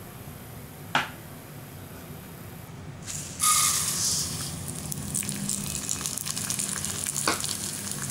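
Broken wheat rava poured into a pan of hot oil, starting with a loud rush about three and a half seconds in and then sizzling steadily as the grains begin to roast. A single clink about a second in.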